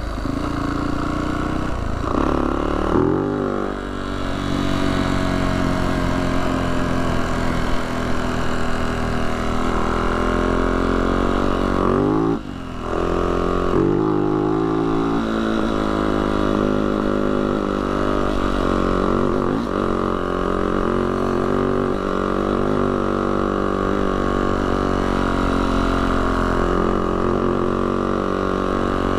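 Yamaha YZ450F dirt bike's single-cylinder four-stroke engine running while being ridden, revs rising and falling. The engine briefly drops off about twelve seconds in, then picks up again.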